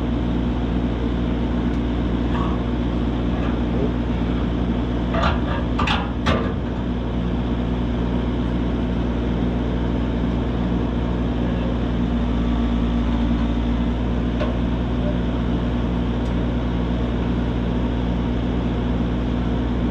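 An engine idling steadily at a constant pitch, with a few short clanks about five and six seconds in.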